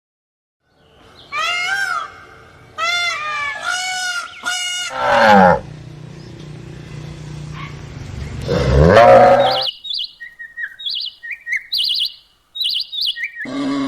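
A run of animal calls: repeated arching pitched calls, then a loud call falling in pitch, a low steady sound, a loud call rising in pitch about nine seconds in, and short high chirps near the end.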